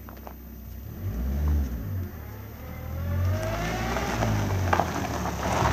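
Opel Corsa hatchback's engine running as the car drives slowly on a gravel track, with surges in revs about a second in and a steady rise in engine pitch in the second half.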